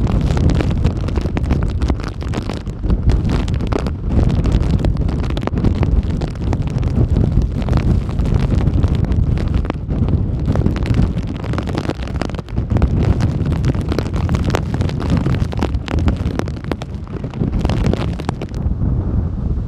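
Hurricane-force wind gusting hard against the microphone: a continuous heavy rumble with irregular buffeting blasts. The higher hiss drops away shortly before the end.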